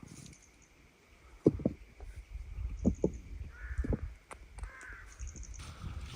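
Crows cawing in short calls, with several sharp knocks coming in pairs, the loudest sounds, and faint quick high bird chirps.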